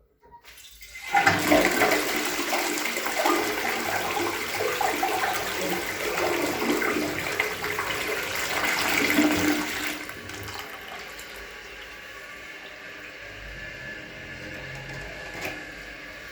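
Logasa Zoom close-coupled toilet flushing: a loud rush of water starts about a second in and lasts about nine seconds, then gives way to a quieter steady running of water as the cistern refills.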